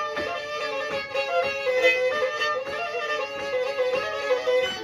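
Black Sea kemençe bowed in a quick instrumental passage, two strings sounding together, with light knocks now and then underneath.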